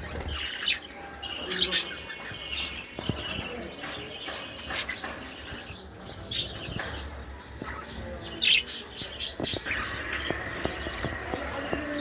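Caged budgerigars chirping and chattering, many short, high calls overlapping without a break.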